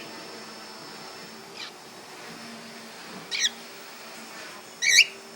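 Cockatiel giving short, warbling chirps: a faint one about one and a half seconds in, then two louder ones, the last near the end.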